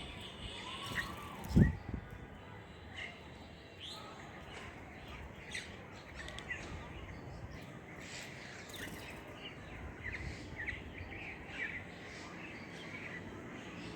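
Small birds chirping, with many short high calls scattered throughout. One loud dull thump about a second and a half in.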